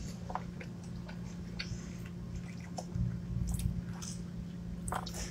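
Quiet chewing of food close to the microphone, with scattered small clicks and rustles, over a steady low hum.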